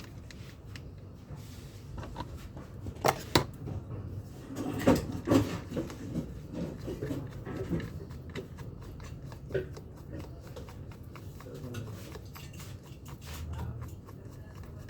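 Scattered clicks and knocks of tool parts being handled and fitted during a power drill repair. The sharpest come about three seconds in and around five seconds in.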